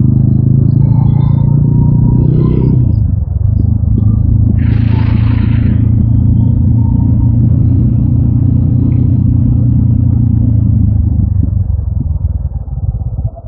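TVS Apache RTR 200 4V's single-cylinder engine running on the move. Its note drops about two and a half seconds in, then holds steady, and grows quieter and uneven near the end. There is a brief hiss about five seconds in.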